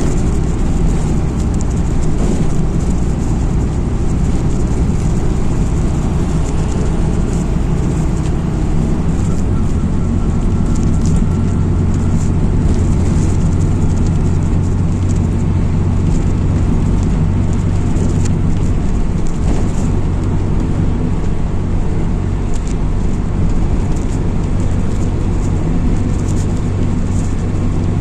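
MAZ-206 city bus under way, heard from inside the passenger cabin: a steady low drone of engine and road noise, with light rattles and clicks on top.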